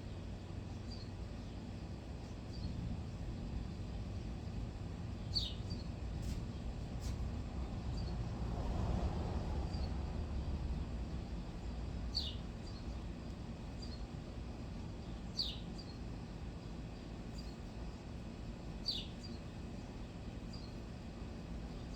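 A bird calling outdoors: short, high chirps that slide downward, repeated every three seconds or so with fainter chirps between them, over a steady low background rumble that swells for a few seconds in the middle.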